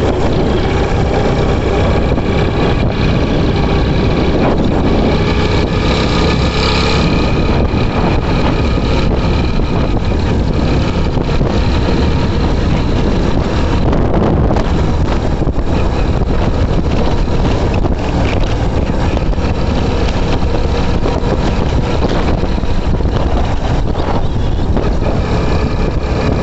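Hero HF Deluxe motorcycle's single-cylinder four-stroke engine running steadily at road speed on 70% alcohol hand sanitizer instead of petrol, with wind noise on the microphone.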